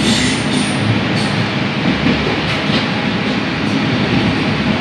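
Moving passenger train heard from inside its rear coach: a steady rumble and rattle of the wheels on the rails, with a thin high whine that fades out about a second in.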